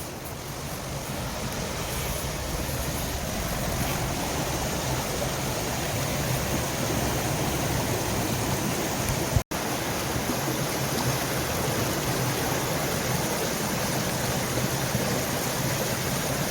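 Steady rush of falling and flowing water from a small waterfall and river. It cuts out for an instant about halfway through.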